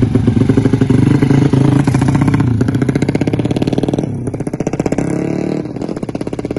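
Racing motorcycle engines of about 200cc running hard at high revs during a drag run, their firing pulses coming in a fast rapid stream. The pitch and level dip about four seconds in, then pick up again.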